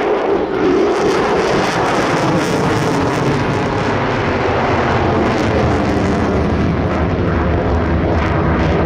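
F-22 Raptor's twin jet engines during a flying display: a loud, steady jet noise whose low rumble grows stronger in the second half.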